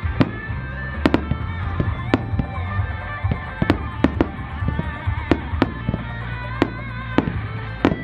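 Starmine fireworks shells bursting in quick succession, sharp bangs about two a second, over music with a long held melody.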